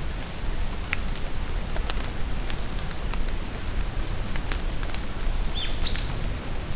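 Steady rain with scattered sharp drips, and birds giving a few short high chirps, then a quick rising call near the end.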